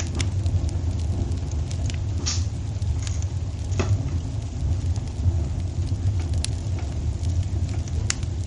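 Wood fire burning in a fireplace: a steady low rumble of flame with scattered crackles and sharp pops, the loudest about two, four and eight seconds in.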